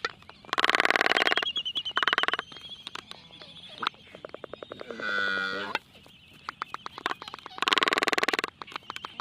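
Farm animals calling: several loud, pulsing calls near the start and again about eight seconds in, with a drawn-out pitched call about five seconds in, over a rapid clicking.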